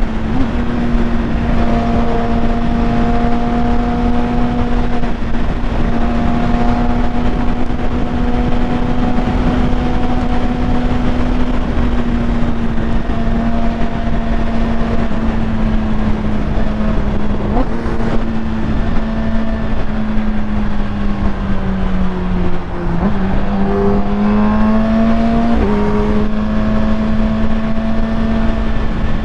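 Kawasaki Ninja ZX-10R inline-four with a full Akrapovic titanium exhaust running at a steady engine speed while riding, with wind noise over the microphone. Toward the end the engine note sags, then climbs and steps back down.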